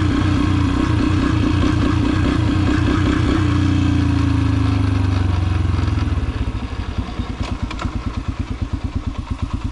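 Yamaha TTR125 dirt bike's single-cylinder four-stroke engine running hard under throttle, its pitch shifting slightly partway. About six seconds in it drops off throttle to a low, evenly pulsing run.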